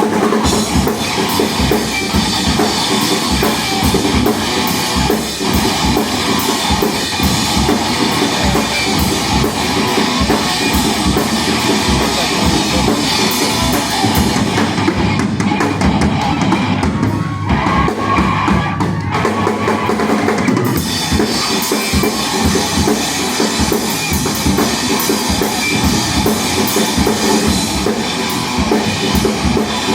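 Rock band playing an instrumental passage with drum kit and guitar; the top end thins out for several seconds about halfway through before the full band comes back.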